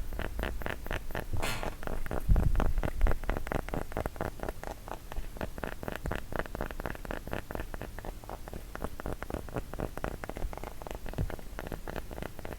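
Fingers tapping rapidly on a wooden block, a quick, uneven run of several light knocks a second.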